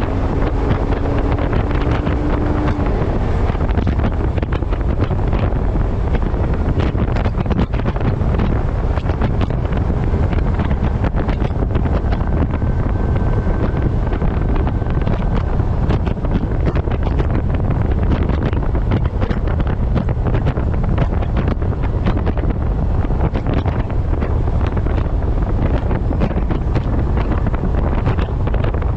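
Heavy wind buffeting on a camera microphone mounted on the front of a moving truck: a steady, loud rush with a deep rumble underneath. A faint steady tone sits in it briefly near the start and again in the middle.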